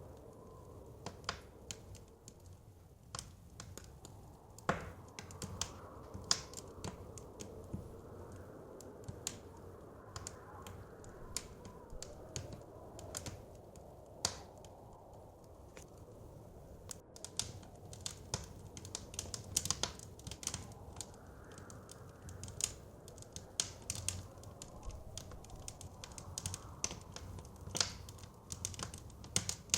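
Wood fire crackling, with irregular sharp pops and snaps that come thicker in the second half, over a low steady rumble of soft blizzard wind.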